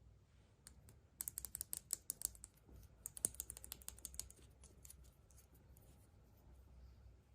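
Hands handling surprise-egg wrappers and small plastic toy parts: a quick run of sharp little clicks and crinkles about a second in, thinning out to scattered clicks after four seconds.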